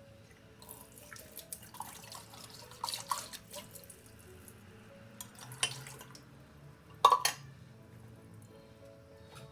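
Water running from a tap into a sink for a few seconds with small splashing clicks, followed by two sharp knocks, the louder one about seven seconds in.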